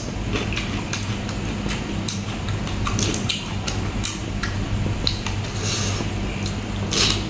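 Close-up chewing of a spicy raw salmon salad with crunchy green vegetables: many short, crisp crunches and wet mouth clicks at an uneven pace, over a steady low hum.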